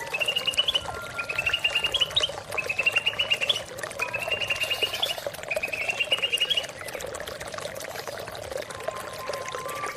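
Greater green leafbird (cucak ijo) singing five short, rapid trilled phrases about a second apart, each rising slightly in pitch at its end, over the steady sound of running water. The bird stops about two-thirds of the way through, leaving only the water.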